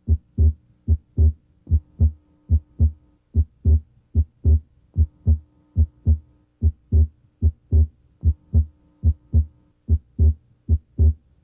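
Heart sounds heard through a stethoscope diaphragm at the left sternal border: a steady lub-dub at about 75 beats a minute. The second sound is split, a split described as abnormally wide that comes and goes with respiration during deep breathing. A faint steady hum runs underneath.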